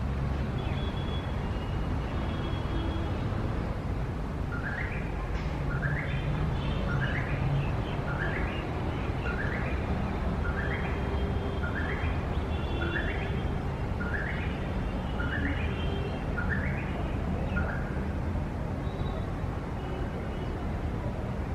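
Steady low rumble of city traffic, over which a bird repeats a short rising call about once a second for roughly thirteen seconds, starting a few seconds in. A few fainter chirps from other birds are mixed in.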